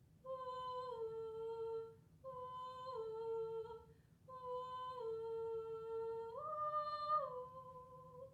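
A woman humming a slow, wordless tune as the nightingale's song: three held phrases, each stepping down a note, the last rising higher before falling back near the end.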